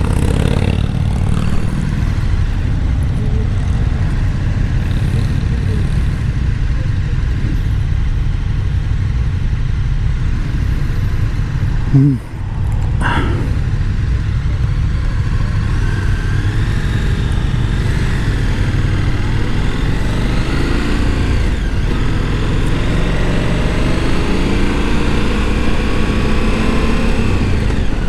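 KTM 1290 Super Adventure S's V-twin engine running under way, with wind rushing over a helmet-mounted microphone. There is a brief thump near the middle, and after it the engine note rises and falls as the speed changes.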